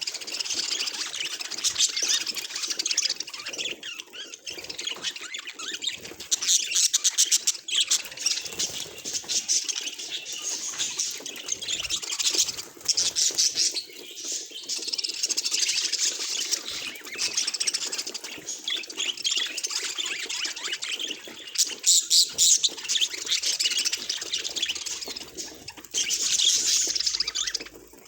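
Budgerigar chattering and warbling: a continuous, busy stream of high chirps, squawks and rapid clicking notes, with louder bursts a quarter of the way in and again near the end.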